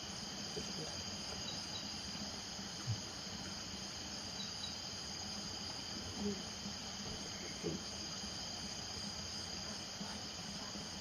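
Steady night chorus of crickets trilling, with a few short, low frog calls breaking in about three times.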